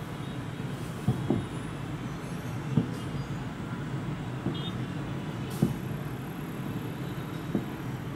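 Aerial fireworks shells bursting at a distance: five or six dull booms at irregular spacing, the loudest a little past halfway, over a steady low rumble.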